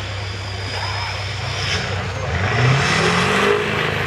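Chevy diesel mega mud truck's engine revving up, rising in pitch and getting louder about halfway through.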